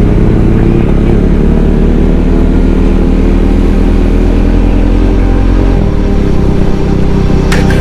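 Motorcycle engine running steadily, its note shifting about six seconds in. A run of sharp clicks starts just before the end.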